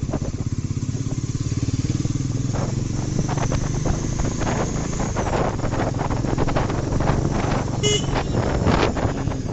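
Bajaj Pulsar NS400Z's single-cylinder engine running steadily at modest revs while riding. The new engine is being run in and kept below 4000 rpm. A short horn beep sounds near the end.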